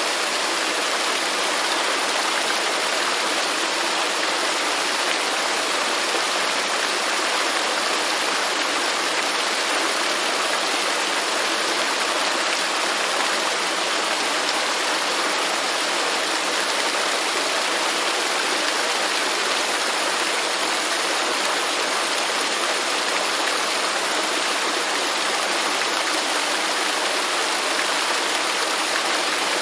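Waterfall rushing steadily, an even, unbroken water noise.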